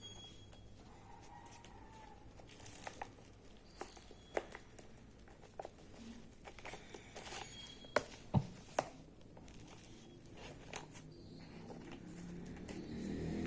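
Paper rustling and crinkling as a hand-made paper rain stick is handled and shaped, with scattered light taps and a few sharper clicks about eight seconds in.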